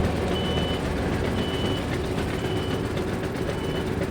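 Reversing alarm on a vehicle beeping, a single high steady tone about once a second, over a steady low rumble.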